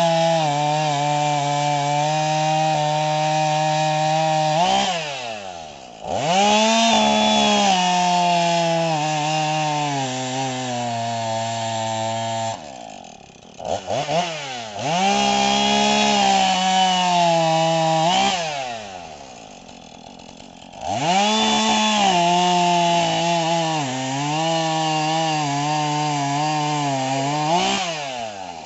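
Two-stroke chainsaw run at full throttle cutting through a tree limb, its engine note sagging a little under load. It drops back to idle three times and revs sharply up again, then falls away near the end.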